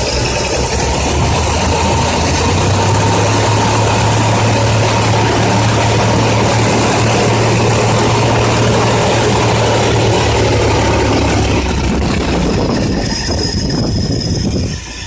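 Ford 300 cubic-inch (4.9 L) inline-six engine idling steadily with its valve cover off, the rocker arms and pushrods exposed and now all getting oil. The level eases slightly near the end.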